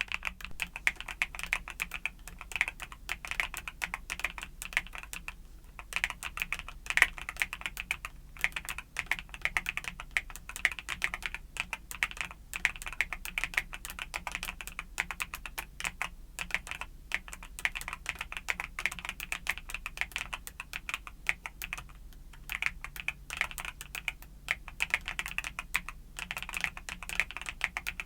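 Continuous typing on a YUNZII mechanical keyboard with Cocoa Cream switches: a rapid, steady stream of key clicks with a few brief pauses.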